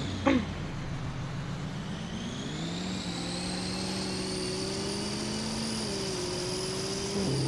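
A truck's drivetrain running as it drives. Its pitch drops at first, climbs about two to three seconds in as it speeds up, holds steady, and falls again near the end. A high whine rises and falls along with it.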